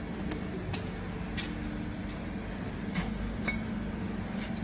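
A handful of light, sharp clinks, about six spread over the few seconds, over a steady low hum.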